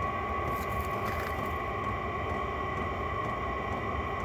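Vevo 5 kW diesel air heater running: a steady fan whine over a rough combustion hum, with a faint tick about twice a second from its fuel dosing pump. A brief rustle comes about a second in.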